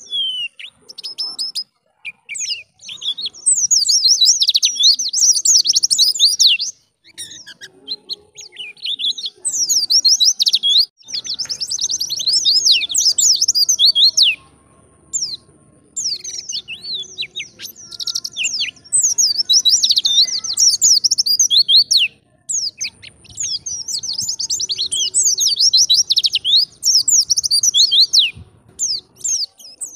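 White-eye (pleci) singing a rapid, twittering song of quick sweeping high notes, delivered in long bouts broken by short pauses.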